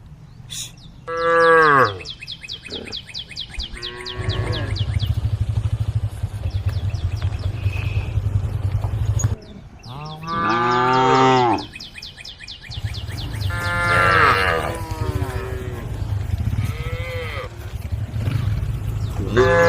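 Cows mooing: about six long, falling calls, the loudest about a second in and around ten seconds in, over a steady low hum.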